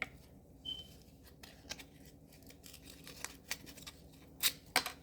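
Scattered light clicks and crinkles of hands handling small objects, with two sharper clicks near the end.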